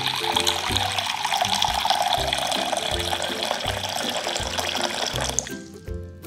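A steady stream of water pouring into a glass bowl and filling it, cutting off sharply near the end. Background music with a steady beat plays throughout.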